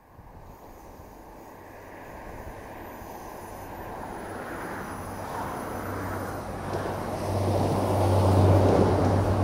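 Diesel multiple-unit passenger train approaching and passing close by. Its engine hum and rail noise grow steadily louder and are loudest near the end.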